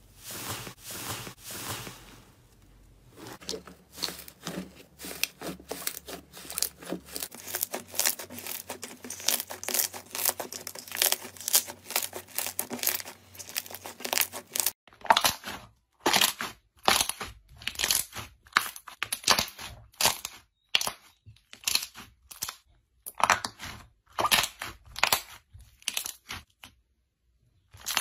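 Slime being squeezed and pressed by hand: a fast run of small crackles and pops, then, after a cut about halfway, slower separate crunchy squishes, each a fraction of a second long, with a short pause near the end.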